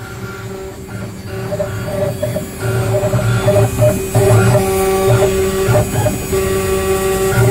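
Desktop CNC router running: a steady motor whine, with pitched stepper-motor tones and pulses changing as the axes move. It grows louder over the first few seconds.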